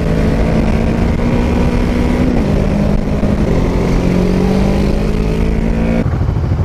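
Yamaha MT-03's 660 cc single-cylinder engine running at road speed, heard from the rider's helmet with wind rumble. The note dips slightly about two seconds in, climbs slowly from about three and a half seconds, and drops away near the end.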